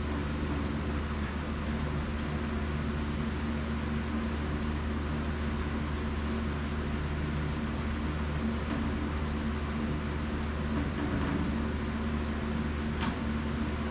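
Steady low mechanical hum with several constant tones over an even hiss, and a single short click near the end.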